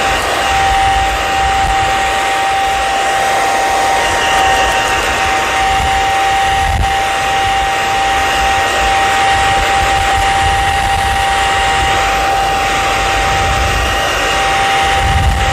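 Hair dryer running steadily: a constant rush of air under a high, even motor whine.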